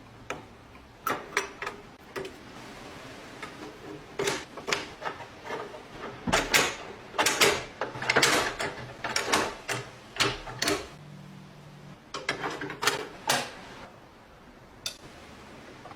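Irregular clicks and knocks of a door lock's parts being handled and worked, some in quick clusters, busiest in the middle.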